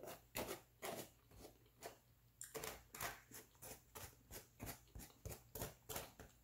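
Close-miked chewing: soft, wet mouth clicks and smacks about three times a second, along with a fork moving through food in a foam takeout container.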